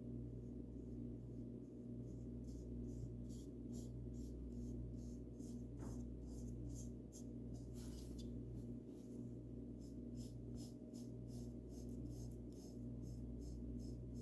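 Paintbrush bristles stroking paint onto a bird house, short scratchy brush strokes repeated over and over, irregular at first and settling into about three a second near the end. A steady low hum runs underneath.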